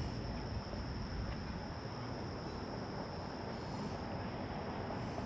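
Summer insects holding a steady high-pitched drone over a low, even background rumble of outdoor ambience.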